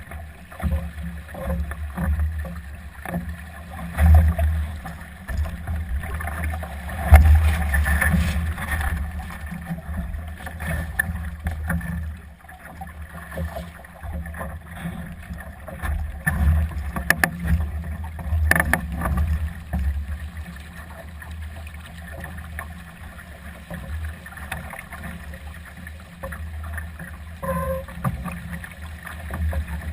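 Gusty wind buffeting the microphone in surges, over water rushing and slapping along the hull of a Solo sailing dinghy under way, with a few sharp knocks now and then.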